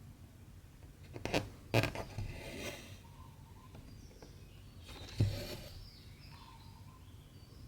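Needle popping through taut 14-count cross-stitch fabric, three sharp clicks, the first two close together and one a few seconds later, each followed by a short rasp of cotton thread drawn through the cloth.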